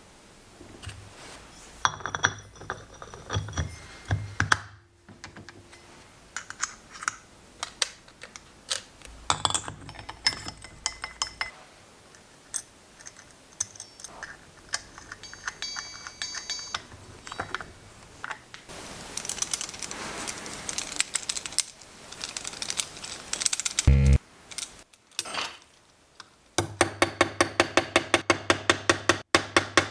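Scattered clicks, clinks and knocks of small metal parts and tools being handled. Near the end, a fast, even tapping starts at about five strikes a second.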